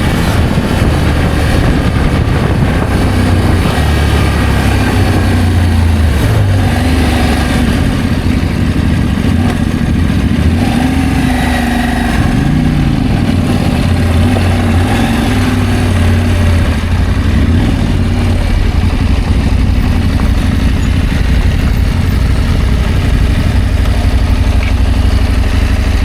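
Adventure motorcycle engine running steadily under way, with a brief shift in pitch about halfway through.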